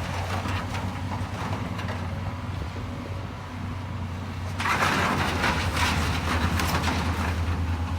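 Diesel engine of a heavy demolition machine running steadily on a pile of bricks, with scattered knocks. About four and a half seconds in, a louder clattering crunch of bricks and rubble begins.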